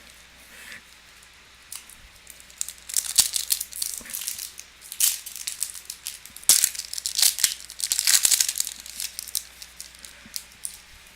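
Foil wrapper of a Topps Chrome baseball card pack crinkling and tearing as it is ripped open, in a run of crackles from a couple of seconds in until near the end.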